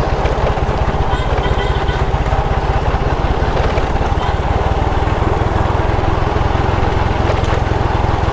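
Motorcycle engine running at a steady pace while riding, with a rapid, even beat of firing pulses.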